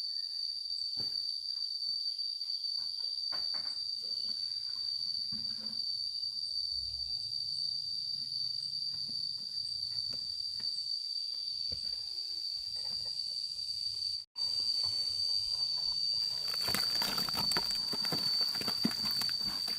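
Insects droning on one steady high pitch, with scattered light knocks and rustles underneath. The drone cuts out for a moment about two-thirds of the way in. Near the end a busier clatter of knocks and scraping comes in.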